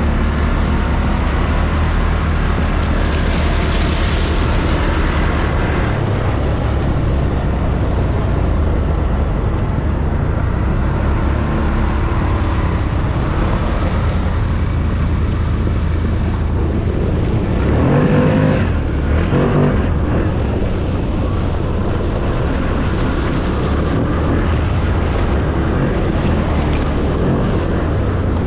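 ATV engine running steadily under way, with two quick revs about two-thirds of the way through.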